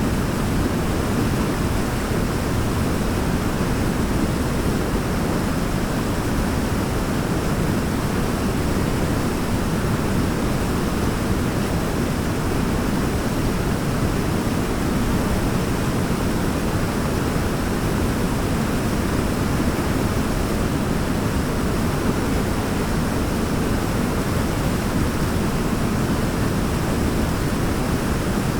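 Waterfall rushing: a steady, unbroken wash of falling water, deepest in the low end, with no change through the whole stretch.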